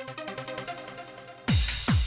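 Electronic dance music playing back from a Fruityloops 3 project: a fast synth riff over rapid ticking percussion, then two heavy kick drums with a falling pitch come in about one and a half seconds in.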